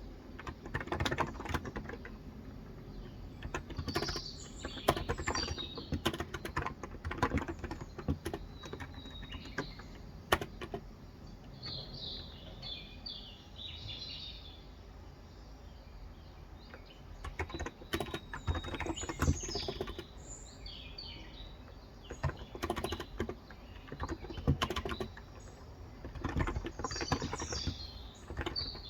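Typing on a Cox Endeavor electro-capacitive tenkeyless keyboard with 35 g switches, in uneven runs of keystrokes with short pauses. Birds chirp in the background in several short bouts.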